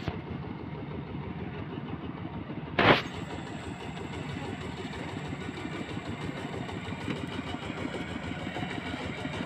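Small tractor's engine running steadily with a quick, even chugging, and one loud knock about three seconds in.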